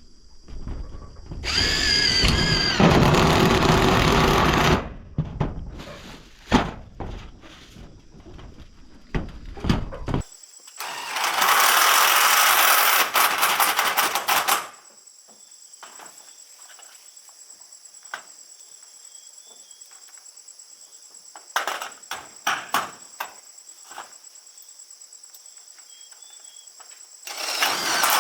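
A handheld power tool runs in three bursts of a few seconds each, with scattered knocks and clicks in between.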